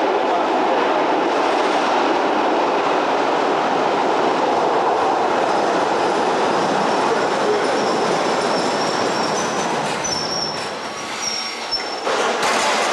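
A rail vehicle running along the track with a steady loud rumble, and a thin high wheel squeal from about nine seconds in. The rumble eases briefly and swells again near the end.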